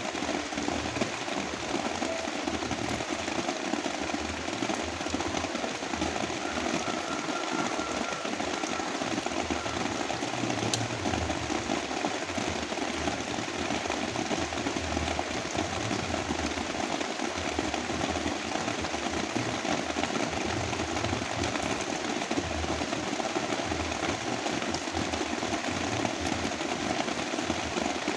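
Heavy rain pouring steadily, mixed with a deep, even brown-noise rumble.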